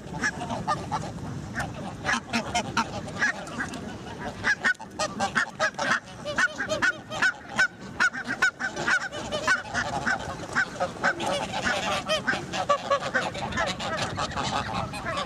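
A flock of geese honking: many short calls overlapping in a continuous, busy clamour.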